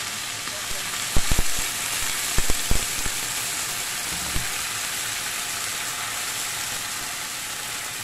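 Thin-sliced pork sizzling steadily in a hot wok, the sizzle carrying on as liquid is added and the pan bubbles. A few sharp knocks come about a second in and again around two and a half seconds, with one more just after four seconds.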